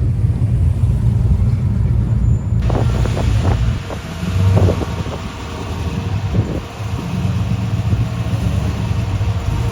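Car engine running at low revs, a steady low rumble, with wind on the microphone; a broad hiss comes in suddenly about two and a half seconds in.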